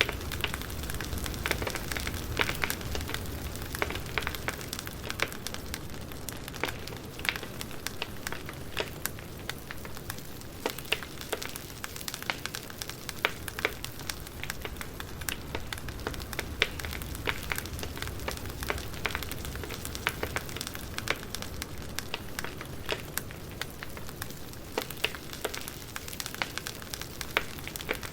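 Wood fire crackling: a steady hiss with dense, irregular sharp pops and snaps from burning firewood logs.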